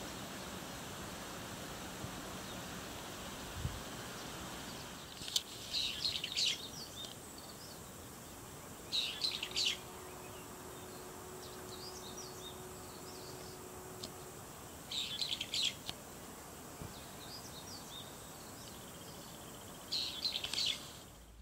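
A songbird singing a short burst of high notes four times, about every five seconds, with softer calls between, over a steady background hiss that is louder in the first few seconds.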